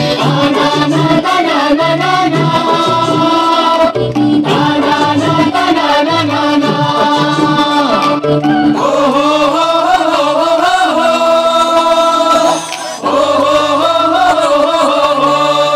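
A band playing live music, with wavering sung melody lines over steady sustained low notes and a short break in the sound about three-quarters of the way through.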